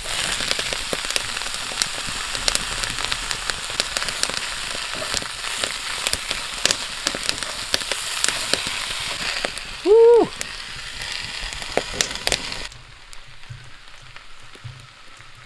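Chopped onions and bell peppers sizzling hard in hot moose tallow in a cast iron skillet on a wood-fired rocket stove, with crackling and the scrape of a wooden spatula stirring. About ten seconds in there is a short pitched sound that rises and falls, and a couple of seconds later the sizzle drops much quieter.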